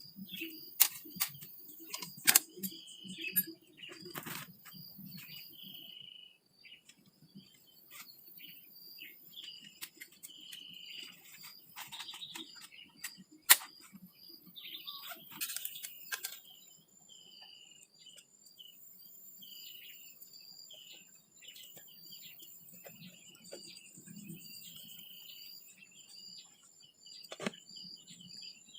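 Small birds chirping again and again over a steady, high insect trill. Scattered sharp clicks and knocks come in the first few seconds and again about halfway.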